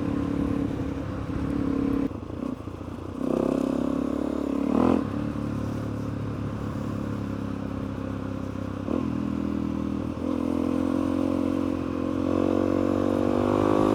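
Suzuki DR-Z400E single-cylinder four-stroke motorcycle engine under way. The throttle eases off about two seconds in, then the engine pulls again. From about ten seconds in it picks up, its pitch rising steadily as the bike accelerates.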